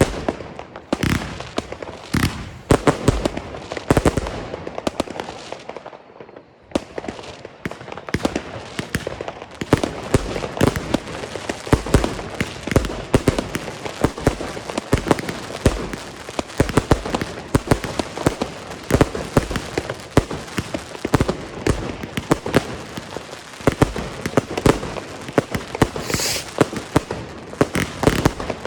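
Consumer firework batteries firing: a run of launch thumps and shell bursts, a brief lull about six seconds in, then dense continuous crackling from crackling-willow (Blinkcracker) cakes.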